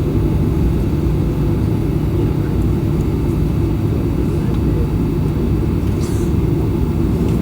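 Steady low rumble of a Boeing 737-800's CFM56 engines and airflow, heard inside the cabin. A brief hiss comes about six seconds in.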